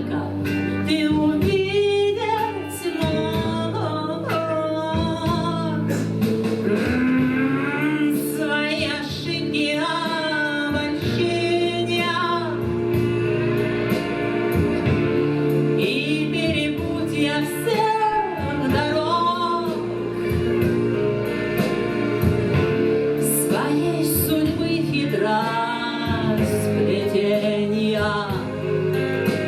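A singer performing a song with acoustic guitar accompaniment, the voice carrying a wavering melody over steady guitar chords.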